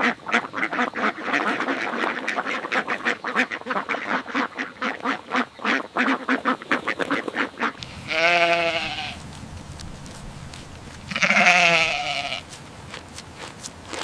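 Animal calls: a long run of quick, short chattering sounds, then two separate wavering bleat-like calls about three seconds apart, each lasting about a second.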